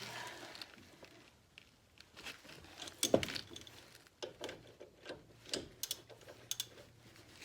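Scattered light clicks and knocks of hand tools and brake parts being handled, a dozen or so separate taps with short gaps between them.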